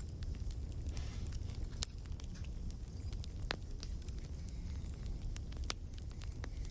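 Crackling wood fire: a steady low rumble with scattered sharp pops, the loudest about halfway through.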